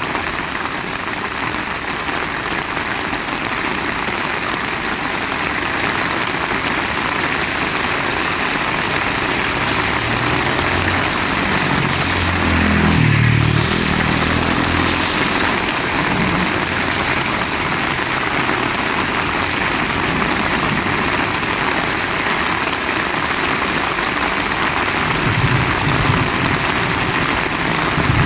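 Heavy rain falling steadily. About halfway through, a motor vehicle's engine passes, rising in pitch and fading over a few seconds, and another engine is heard near the end.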